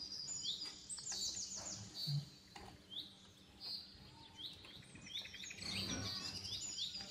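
Small birds chirping in quick series of short high calls, thinning out briefly in the middle, with a few faint clinks of a ladle scooping curry into a bowl.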